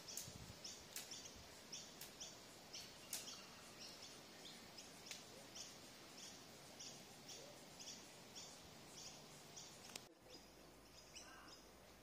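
Faint bird chirping in the background: a short high note repeated steadily about three times a second, breaking off about ten seconds in.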